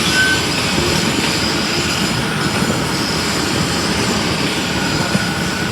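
Flux-cored arc welding with self-shielded Innershield NR305 wire, the arc crackling and hissing steadily throughout.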